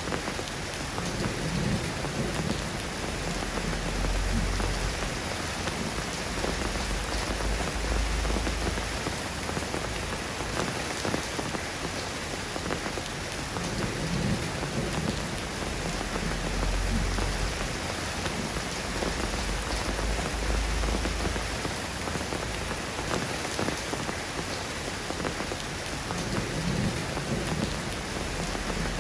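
Steady rain falling, an even hiss of many drops. A deep low rumble swells and fades three times.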